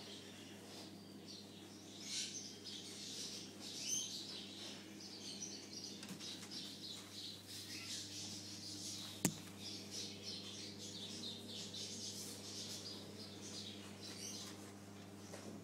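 Many short, high chirps from small birds, going on continuously over a steady electrical hum, with a single sharp click about nine seconds in.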